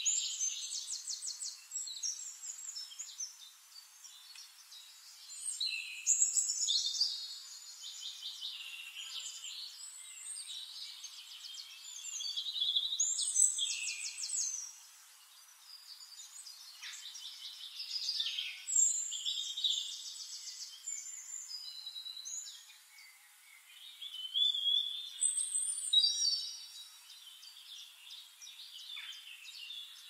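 Songbirds singing, high-pitched trilling and warbling phrases that come in bursts about every six seconds, with quieter chirps between.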